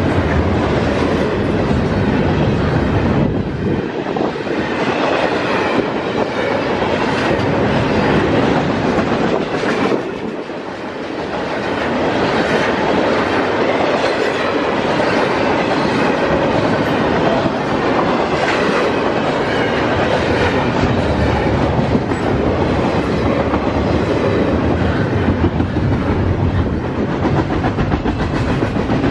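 Double-stack intermodal freight cars rolling past close by, with a continuous loud noise of steel wheels on rail; the noise dips briefly about ten seconds in, then returns.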